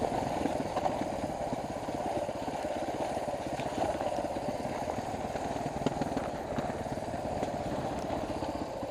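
Dual-sport motorcycle engine idling steadily.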